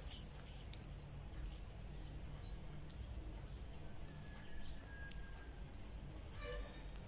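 Faint birds chirping in short, scattered calls over a low steady background hum.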